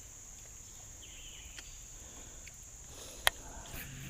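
Steady high-pitched insect chorus, crickets, with a few faint clicks and one sharp click a little over three seconds in.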